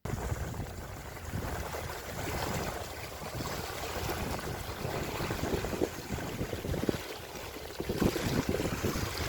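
Wind buffeting the microphone over the wash of water, an uneven rushing with gusty low rumble that starts abruptly.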